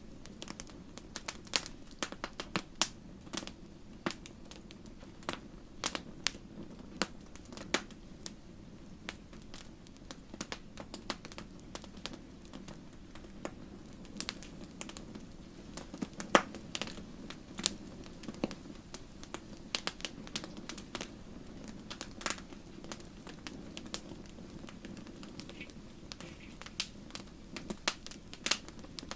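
Wood campfire crackling and popping: irregular sharp snaps, several a second, the loudest about 16 seconds in, over a low steady rush of flame.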